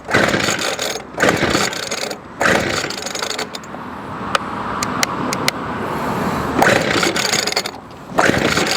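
Recoil starter of a Weed Eater Featherlite SST25 trimmer's 25cc two-stroke engine, pulled repeatedly in strokes about a second long. The engine turns over but does not catch: it is hard-starting after a carburetor kit replacement.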